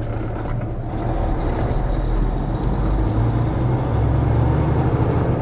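Semi truck's diesel engine running under way with road noise, a steady low drone that swells slightly a few seconds in.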